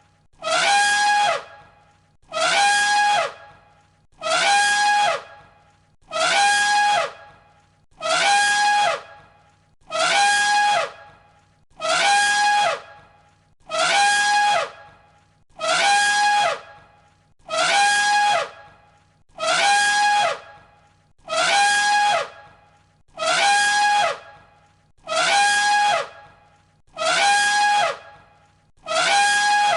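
An elephant trumpeting, the same call repeated about every two seconds. Each call lasts about a second and drops in pitch at the end: one recording played on a loop.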